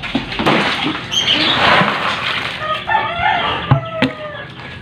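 A rough rustling, scraping noise for a couple of seconds, then a bird calls with a few short falling cries about three seconds in, with a couple of sharp knocks.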